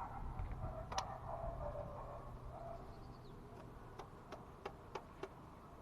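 Faint handling of insulation sheet pieces: a single sharp click about a second in, then a run of short, light clicks and taps near the end.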